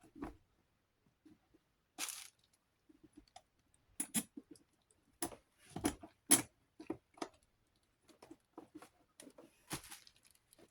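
Metal parts of a Galaxy 9-inch desk fan's motor being worked into the housing: irregular clicks and light knocks, with a short scrape about two seconds in and another near the end.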